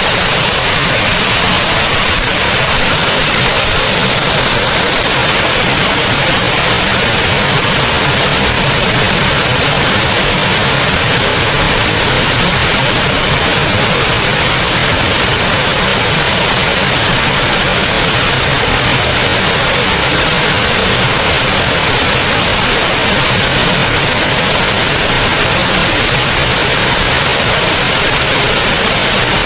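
Small waterfall pouring steadily: a loud, even rush of falling water that never changes.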